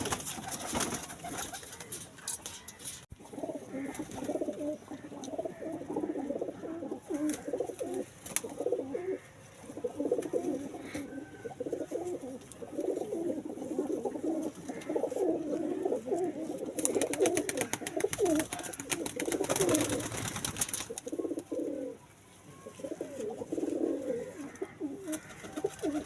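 Domestic pigeons cooing over and over, low warbling coos with a short break near the end. A stretch of broad rustling noise comes partway through.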